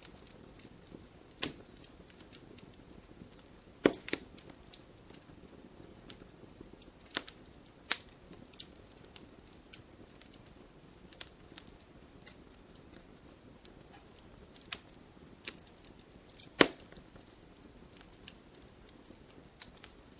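Campfire crackling: burning wood giving off irregular sharp pops and snaps over a low steady hiss, with a couple of louder cracks.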